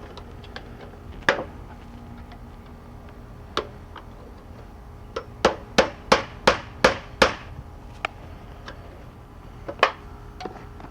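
Hammer blows: a single strike, another a couple of seconds later, then a quick run of about seven strikes at roughly three a second, and one last strike near the end.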